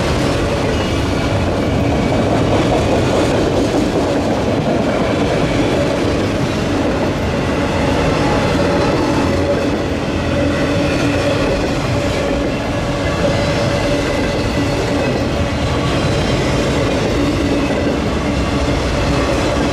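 Autorack freight cars rolling past: a steady rumble and clatter of steel wheels on the rails, with a thin wheel squeal running through it.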